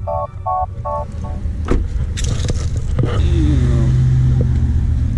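Background music that stops about a second in, a few sharp knocks, then a car engine idling steadily and loudly from about three seconds in.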